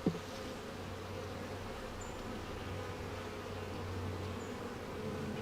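Honeybees buzzing steadily around an open hive, a low even drone of many bees in flight.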